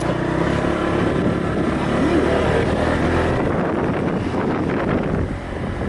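Small motorbike engine running steadily while riding, with wind buffeting the microphone.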